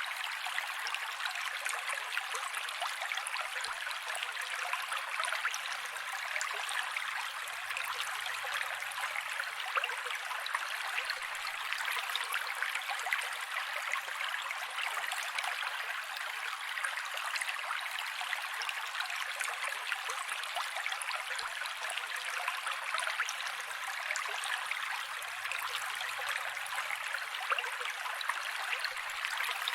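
Mountain creek water rushing steadily, an even hiss of flowing water with no low rumble.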